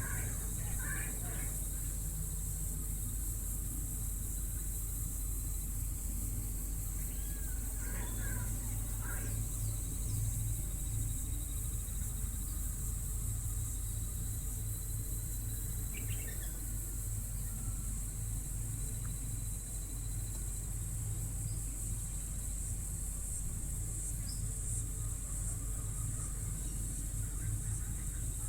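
Steady high-pitched drone of insects, with a few short bird calls near the start, about eight seconds in, and about sixteen seconds in, over a steady low hum.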